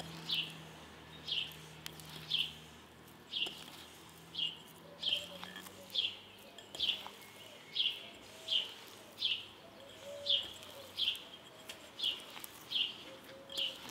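A small bird chirping over and over, one short falling chirp roughly every 0.8 seconds.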